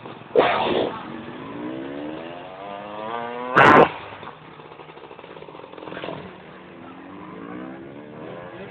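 Motocross bike engines revving, their pitch climbing repeatedly as they accelerate, with a short loud burst about half a second in and a louder one in the middle.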